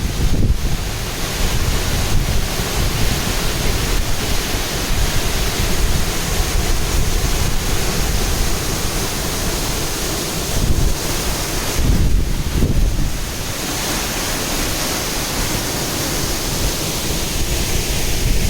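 Waterfall rushing steadily, with wind buffeting the microphone in uneven low gusts.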